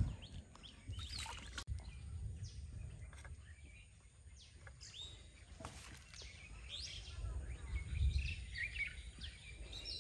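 Small birds chirping and calling again and again, thicker in the second half, over a low background rumble.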